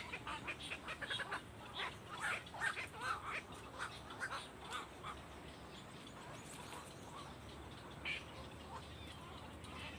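Birds chirping: many short calls come close together over the first five seconds, then only a few scattered chirps follow.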